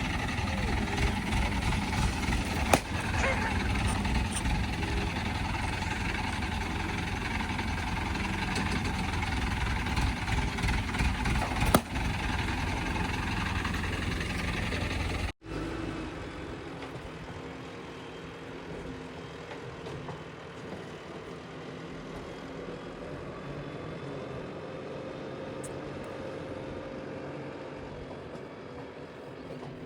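Diesel engines of heavy machinery running under load, with a few sharp clanks. About halfway there is an abrupt cut, after which an engine hums more quietly and steadily, as if idling.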